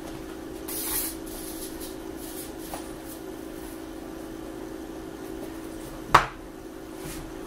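Quiet handling of paper and a glue bottle while a paper tail is glued on: soft paper rustles over a steady low hum, with one sharp click about six seconds in.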